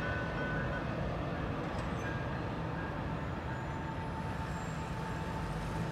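Steady low rumble of a passenger train pulling away down the line, with a faint steady tone or two above it.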